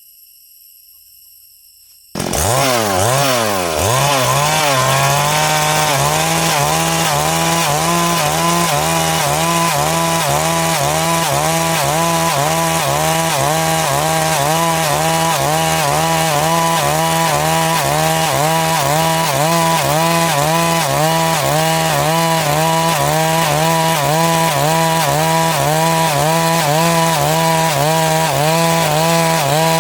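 Chainsaw starts suddenly about two seconds in, its pitch sweeping briefly, then runs steadily under load while cutting through wood, with a regular rise and fall in pitch.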